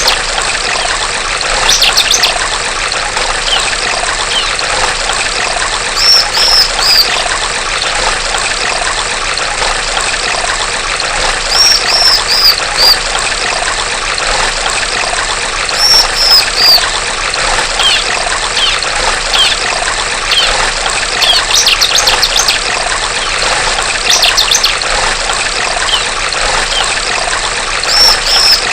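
Female bar-winged prinia (ciblek) giving short bursts of high, rapid chirping notes every few seconds, over a steady trickle of running water.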